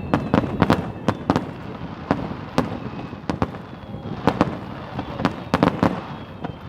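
Fireworks display: aerial shells bursting in quick, irregular succession, a rapid string of sharp bangs and crackles at several a second.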